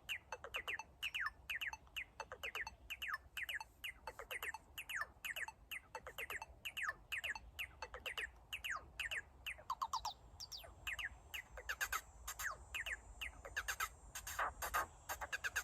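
Korg Volca FM synthesizer playing a fast, even sequence of short chirp-like notes, several a second, each falling quickly in pitch.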